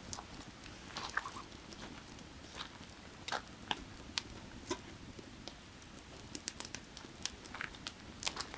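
Firewood fire crackling: irregular sharp pops and snaps over the faint steady rush of a creek.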